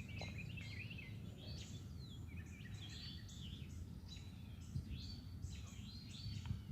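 Several songbirds chirping and singing in quick, overlapping phrases over a steady low rumble.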